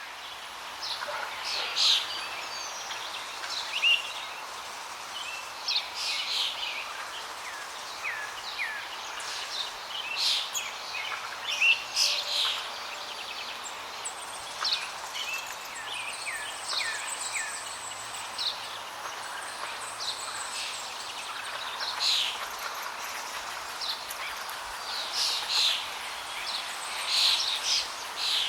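Parrots giving many short chirps and calls, some louder than others, over a steady background hiss.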